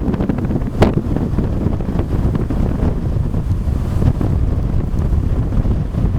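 Strong wind buffeting the microphone in a continuous low rumble, with ocean waves washing ashore underneath. A single sharp knock about a second in.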